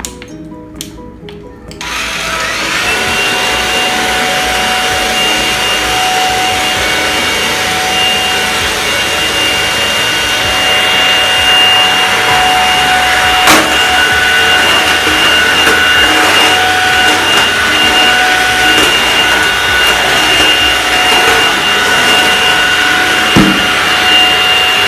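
Midea Agil 2-in-1 stick vacuum switched on about two seconds in, its motor spinning up to a loud, steady whine over the rush of suction air. There is a sharp click about halfway through and a short thump near the end.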